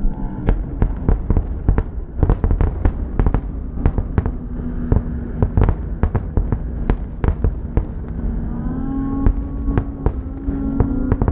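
Fireworks going off in a rapid barrage of sharp bangs, two to three a second, over a low rumble. A steady hum comes in near the end.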